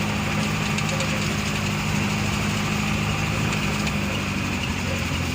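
Vehicle engine running steadily at an even pitch.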